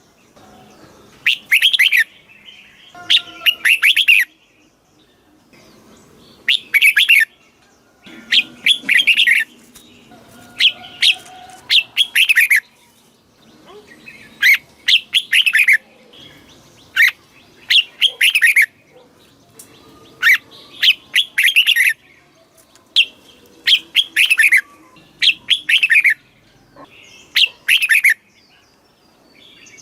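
Red-whiskered bulbul singing: short, bright phrases of quick, falling whistled notes, repeated every second or two and often given in close pairs.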